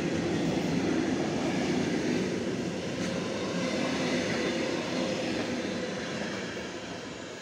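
Intermodal freight train of pocket wagons loaded with lorry semi-trailers rolling past, a steady noise of wheels on rails that fades from about six seconds in as the last wagons go by and the train moves away.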